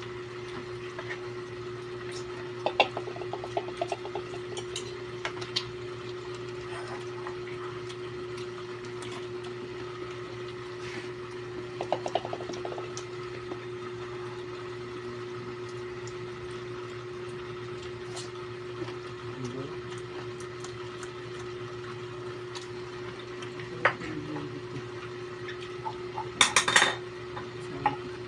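Scattered clinks and clatter of dishes and eating utensils, in a few short clusters with the loudest near the end, over a steady low hum.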